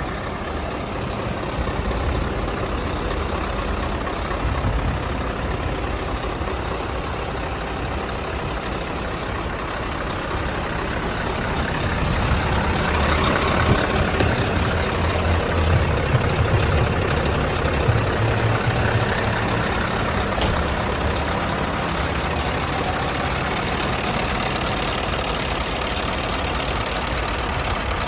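Scania R500's V8 diesel engine idling steadily, a little louder for several seconds around the middle.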